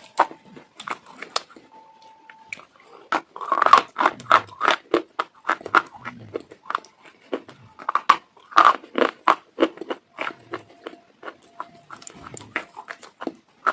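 Close-up chewing of crunchy food: rapid, irregular sharp crunches as it is bitten and ground up, with a faint thin tone a few times.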